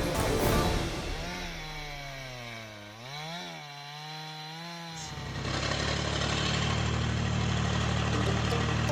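Chainsaw running in a cut, its pitch sagging and rising with the load, cutting off abruptly about five seconds in. A steady, louder machine noise follows.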